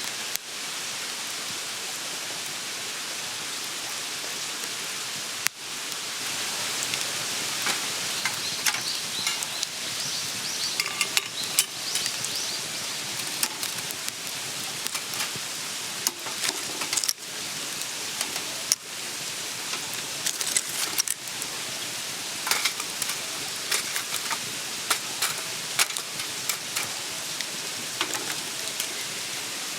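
Food sizzling as it cooks over a campfire, a steady hiss with frequent sharp crackles and pops, which grow busier after about six seconds.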